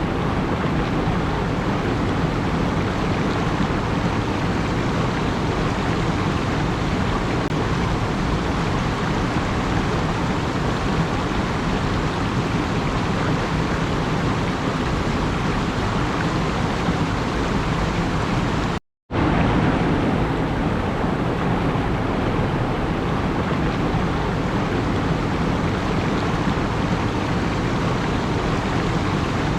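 Continuous, even rushing noise with no rhythm or swells, broken by a brief cut to silence about nineteen seconds in.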